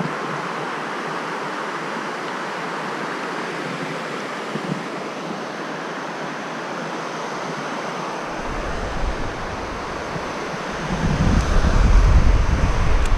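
Steady rush of running stream water, with wind buffeting the microphone as a low rumble that starts about eight seconds in and gusts loudest near the end.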